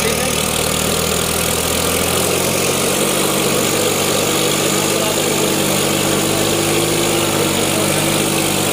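Diesel tractor engine running steadily, its pitch shifting slightly about two and a half seconds in.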